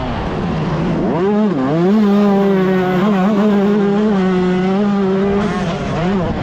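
125cc two-stroke motocross bike engine revving hard: the pitch climbs about a second in, dips briefly, then holds steady and high for about three seconds before dropping off and picking up again near the end.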